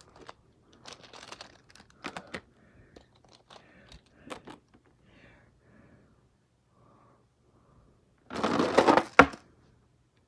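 Light clicks and rustling of plastic toys and track being handled. About eight seconds in, a loud rattling roll of Hot Wheels Monster Jam die-cast toy trucks running down a plastic track lasts about a second and ends in a sharp clack.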